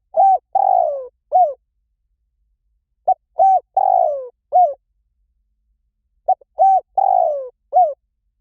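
Spotted dove cooing: three phrases about three seconds apart, each a short note, a clipped coo, a long coo that falls in pitch, and a final short coo.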